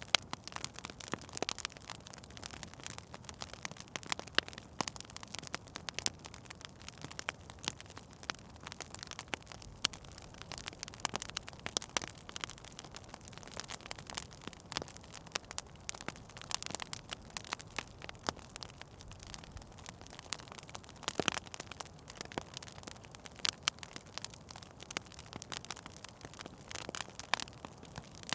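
Fire in a fireplace crackling, with irregular sharp snaps and pops over a faint steady hiss.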